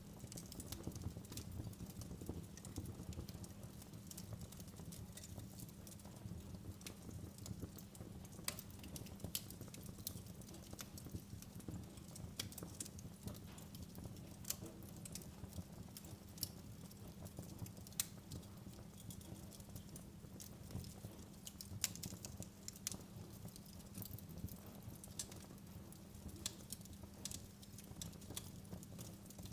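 Wood fire in a fireplace, crackling and popping in irregular sharp snaps over a steady low rumble of burning.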